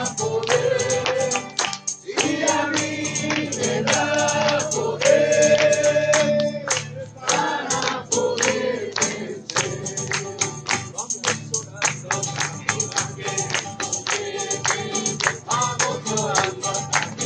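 Group singing of a Christian hymn in Spanish, accompanied by live instruments with a tambourine struck on a quick, steady beat.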